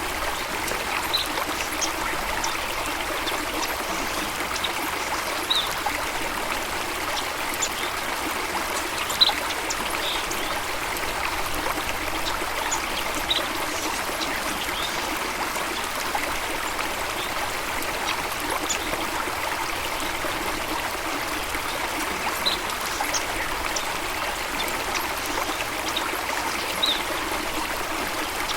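Water of a stream running and trickling steadily, with a few brief high-pitched blips scattered over it.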